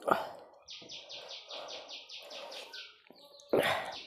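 A bird chirping in a rapid, even run of high notes, about seven a second, for about two seconds in the middle. Around it come eating sounds: fingers squishing rice on a steel plate. A short loud noise at the start and a louder one about three and a half seconds in stand out.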